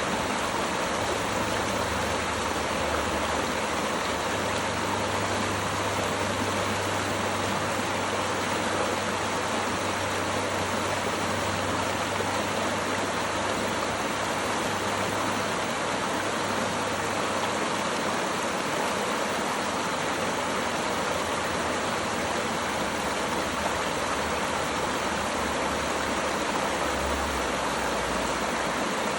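Running water rushing steadily, an even, unbroken wash of sound.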